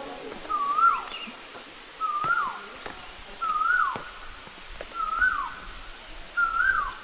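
A whistled animal call, repeated five times about a second and a half apart: each note lifts briefly then swoops sharply down in pitch. A steady high-pitched drone runs underneath.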